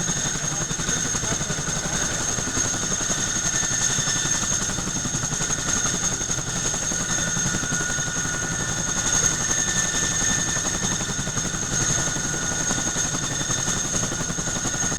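Boeing CH-147F Chinook tandem-rotor helicopter running: a steady, high-pitched turbine whine over a fast, dense rotor beat.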